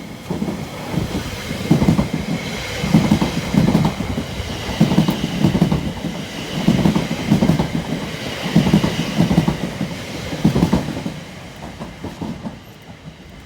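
Class 720 electric multiple unit passing through, its wheels clicking over the rail joints in a regular rhythm of paired thumps, with a steady high whine from the train. The sound fades near the end as it moves away.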